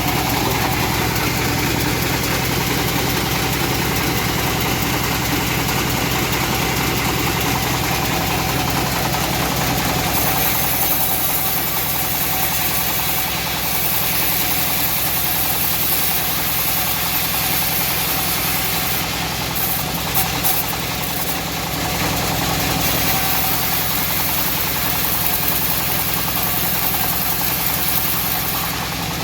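Homemade bandsaw mill running steadily as it rips teak, with a constant engine-like drone. A high hiss comes in about ten seconds in, drops out briefly past the middle, then returns.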